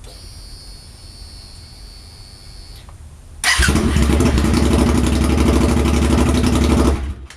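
Suzuki SV1000S V-twin engine started with no exhaust fitted, running loud for about three and a half seconds and then shut off abruptly. Before it starts, a faint steady high whine is heard for about three seconds.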